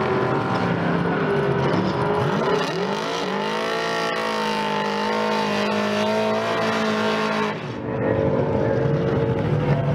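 Drag car engine revving up, holding a steady high rpm for about five seconds, then dropping off sharply near the end as another engine keeps running at a lower pitch.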